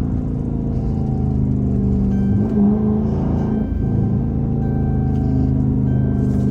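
Chrysler 300's 5.7 L Hemi V8 running while driving, a steady low exhaust drone whose pitch rises briefly a couple of seconds in, dips around the middle, then holds steady.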